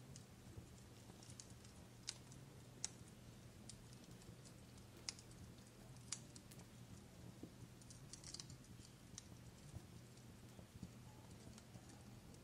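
Faint fireplace crackling: sparse, irregular sharp pops and snaps, a few of them louder, over a low steady hum.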